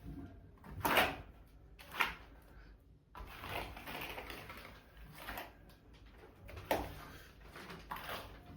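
Building work in a small room: sharp knocks about a second in, two seconds in and near the end, with rough scraping between them.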